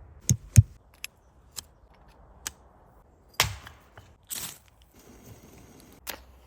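A series of sharp cracks and knocks at uneven intervals, the loudest two just after the start and one about three and a half seconds in, with a short crunching sound soon after.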